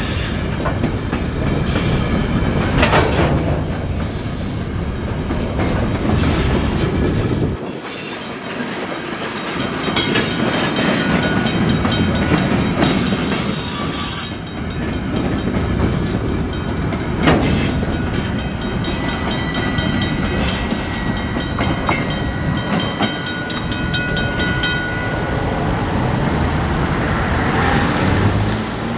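Loaded gypsum hopper cars of a CN freight train rolling past: a steady rumble of steel wheels on rail, with scattered clicks and knocks at the rail joints and intermittent thin, high wheel squeal.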